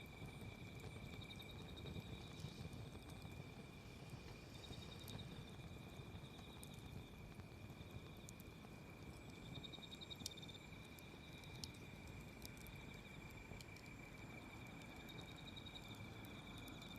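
Faint insects trilling in repeated short spells over a steady high tone, with a few sparse sharp crackles from a wood fire and a low even rumble underneath.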